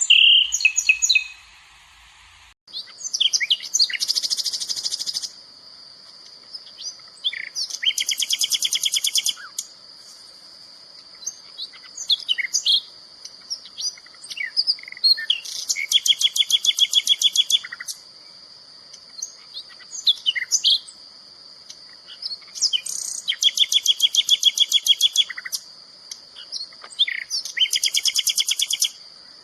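Songbird singing, with a fast, rattling trill about every four seconds and short chirps between, over a continuous high-pitched buzz.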